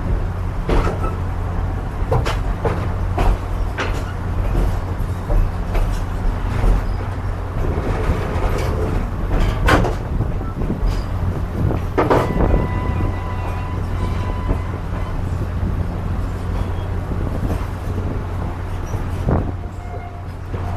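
Railroad passenger coach rolling along the track, heard from its open vestibule: a steady low rumble of wheels and running gear. Scattered sharp metallic clanks and rattles run through it, the two loudest about halfway through. A thin squeal follows soon after the second of these.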